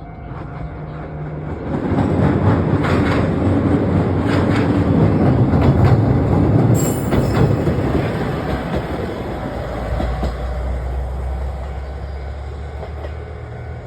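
A Mōka Railway train passing over a level crossing, its wheels clicking over the rail joints. It grows loud about two seconds in, is loudest around six seconds, then fades with a low steady drone.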